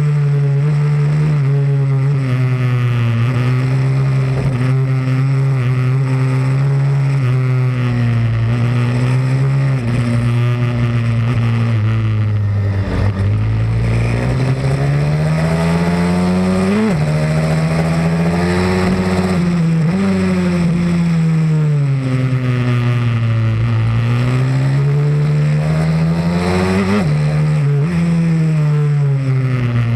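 Pit bike's single-cylinder engine running hard around a track, its pitch climbing and falling repeatedly as it accelerates out of corners and backs off into them, with a few sudden breaks in pitch from gear changes.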